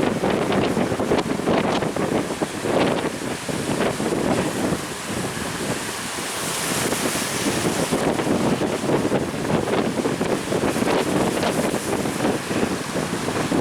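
Strong wind buffeting the microphone in irregular gusts, over the steady wash of rough sea waves.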